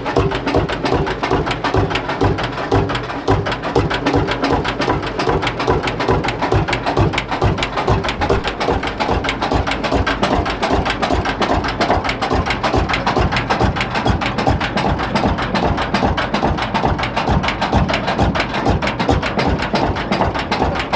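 Lanz Bulldog's single-cylinder two-stroke hot-bulb engine idling with a rapid, even knocking beat.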